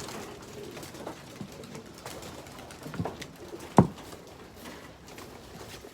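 Racing pigeons cooing around the loft, with a couple of short knocks, the louder a sharp thump just under four seconds in.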